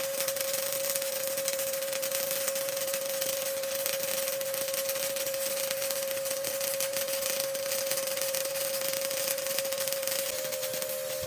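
Stick welding arc with a 1/8-inch E7018 electrode at 120 amps, running an overhead fill bead: a steady crackling sizzle with a constant whine underneath that steps up slightly near the end.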